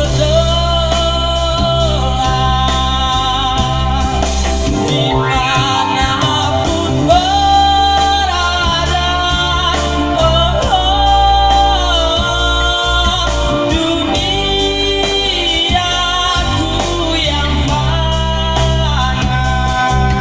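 A male voice singing a melody with instrumental accompaniment, holding long notes over a steady bass.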